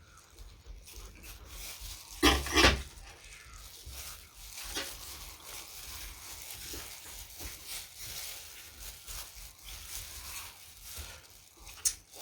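Close-miked eating: wet chewing and mouth smacks of someone eating food such as spicy salad and chewy octopus. Two louder noisy bursts come a little over two seconds in.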